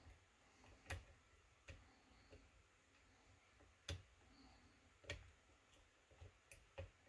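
Faint, irregular clicks of a lock pick working the pin stack inside a kick cylinder, about seven scattered ticks.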